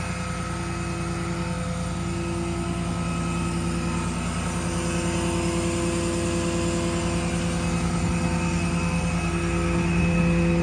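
Diesel engine of a Kenworth T270 work truck running steadily, a Paccar PX7, with a constant low hum that grows slightly louder near the end.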